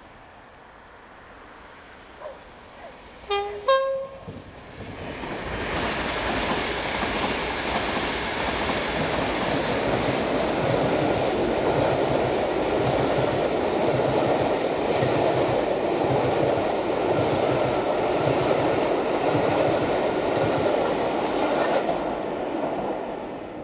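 Class 86 electric locomotive sounding its two-tone horn about three seconds in, a lower note then a higher one. The locomotive and its train of coaches then pass close by: a loud steady rush of wheels on rail with a rhythmic clickety-clack over the rail joints, dying away near the end.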